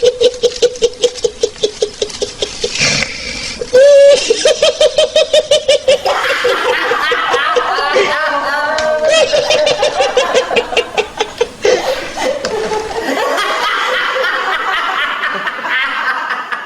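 Laughter sound effect: a quick run of repeated ha-ha pulses, with more voices laughing over one another from about six seconds in.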